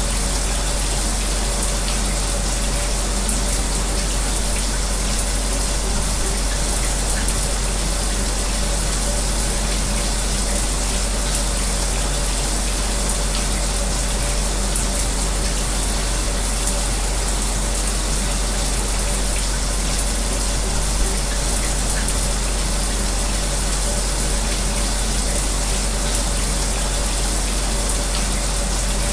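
A shower spraying steadily together with an electric fan running, a constant hiss of falling water over a low, even hum.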